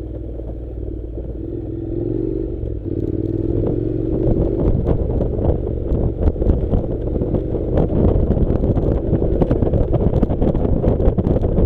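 Honda NC700's parallel-twin engine running under way on a rough dirt track, its pitch rising between about two and four seconds in as the bike accelerates. From about four seconds in, a growing clatter of knocks and rattles from the bumpy surface joins the engine.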